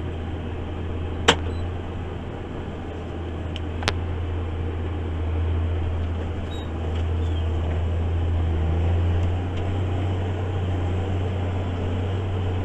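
JCB Fastrac 8250 tractor's engine running steadily under load while ploughing, heard from inside the cab as a low drone that swells a little midway. Two sharp clicks sound about a second in and again about four seconds in.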